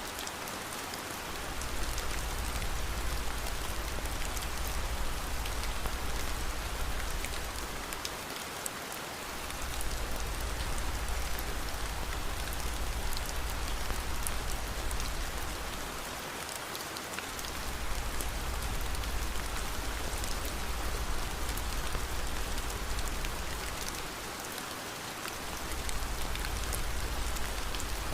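Steady rain falling, an even hiss with scattered sharp crackles and ticks. A low rumble underneath drops out briefly about every eight seconds.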